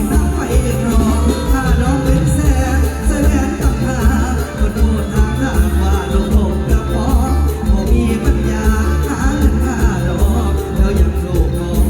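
Live mor lam band playing at full volume with a singer's wavering vocal line over a heavy, steady bass beat.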